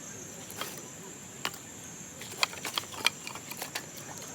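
Scattered sharp wooden knocks and clicks at irregular intervals from firewood being handled, over a steady high chirring of crickets.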